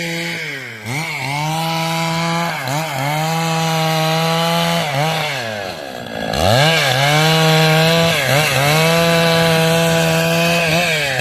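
Two-stroke chainsaw running at high revs while cutting wood, its pitch sagging briefly several times as the chain bites and picking back up. Around the middle it drops lower for about a second, then revs up again.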